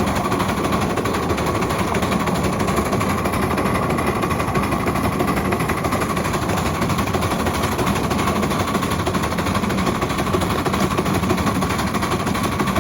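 A ride-on miniature Mikado locomotive and its train running steadily, heard from the cab: a fast, unbroken clatter with no pause.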